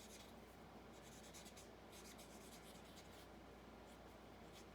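Faint scratching of a Stampin' Blends alcohol marker brushed across cardstock in short, irregular strokes while colouring in a background.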